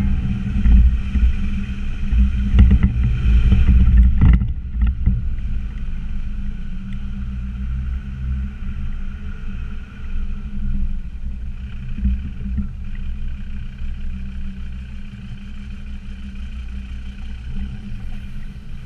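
Land Rover Discovery Td5's five-cylinder turbodiesel running as the truck drives over a rough off-road track. Several knocks and thuds come in the first four seconds or so, then it settles into steadier running.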